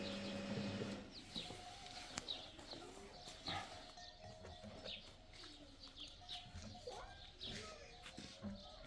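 Small birds chirping repeatedly outdoors, short high falling calls about twice a second, with fainter, lower animal calls beneath. A steady low hum cuts off about a second in.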